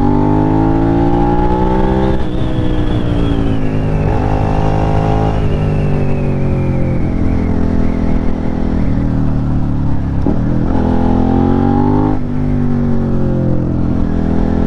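Motorcycle engine under way, its pitch climbing and dropping several times as the throttle is opened and closed through gear changes.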